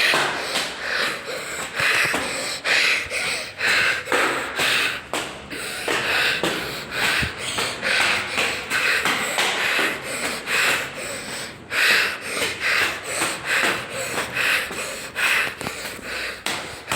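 Heavy, rapid breathing of a person out of breath from climbing many flights of stairs, with roughly one or two breaths a second close to the microphone. Footsteps on the stair treads come through between the breaths.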